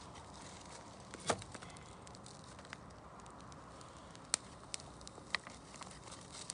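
A few scattered, irregular sharp clicks and knocks over a faint steady background hiss.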